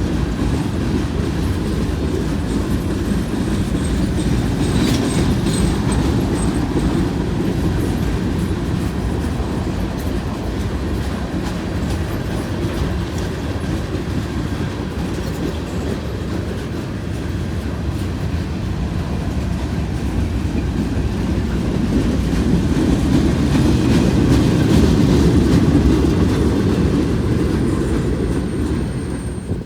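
Norfolk Southern freight cars rolling past: a steady rumble of steel wheels on the rails, with clickety-clack over the rail joints. A faint high wheel squeal comes in a few seconds in and again near the end.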